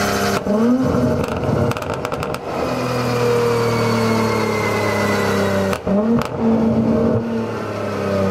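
Infiniti Q50 with its downpipe removed running on a chassis dyno, the engine and exhaust note falling slowly in pitch. Quick throttle blips come near the start and around six seconds in, with bursts of exhaust crackles and pops.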